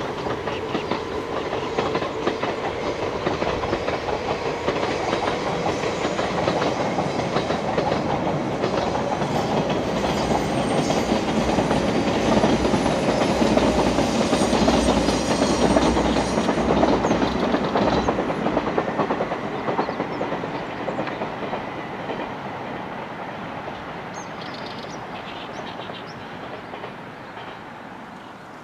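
381 series electric limited express train running past, wheels clacking over the rail joints; the sound swells to its loudest about halfway through and then fades away as the train draws off.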